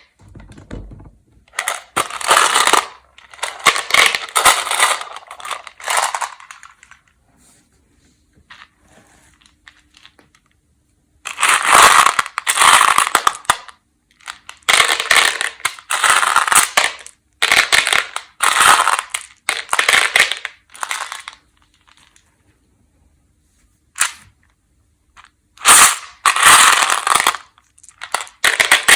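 Peanut M&M's candies being crunched, in clusters of sharp crunches lasting a few seconds each with quiet pauses between them.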